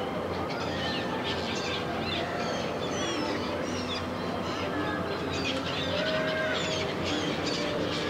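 Birds chirping and calling in many short quick notes over a steady outdoor background murmur.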